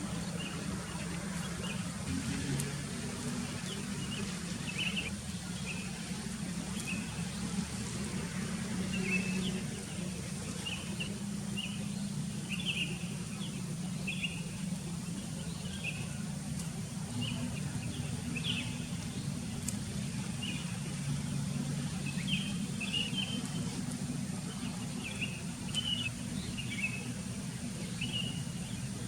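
Sooty-headed bulbuls chirping, short calls coming every second or so, over a steady low rumble and a faint steady high hiss.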